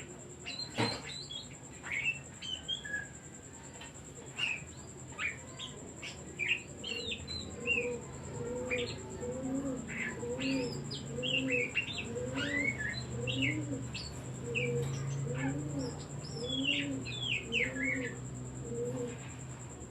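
Oriental magpie-robin singing: a run of short, sharp whistled chirps and slurred notes, some sweeping up and some down. From about eight seconds in, a second bird's low call repeats about once a second underneath.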